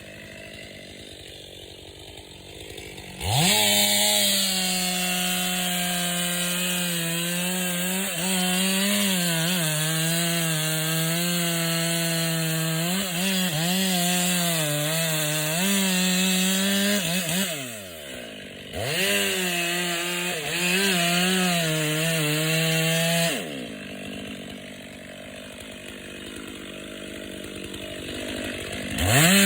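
Chainsaw revving up about three seconds in and cutting into wood at full throttle, its pitch wavering as the chain bites. It falls back briefly past the middle and then cuts again. It drops to a low, quieter run for several seconds and revs up again at the very end.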